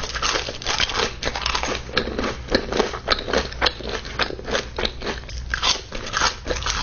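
Close-miked eating: biting and chewing Raising Cane's fries, with many quick, irregular crunches and mouth clicks.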